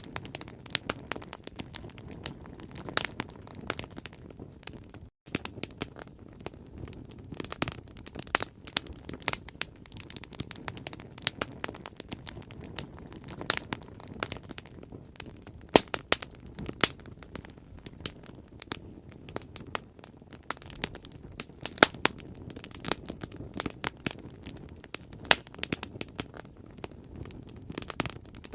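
Bonfire crackling: irregular sharp pops and crackles over a steady low rush of flames. The sound drops out completely for a split second about five seconds in.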